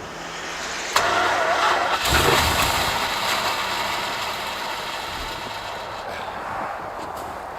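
1972 Chrysler Newport's V8 cold-starting: it fires up about a second in, revs up once, then settles toward a fast cold idle as the sound gradually eases.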